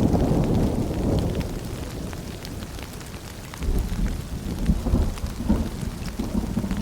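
Rain falling steadily, with many small drop ticks, over a low rumble of thunder that eases off toward the middle and swells up again about halfway through.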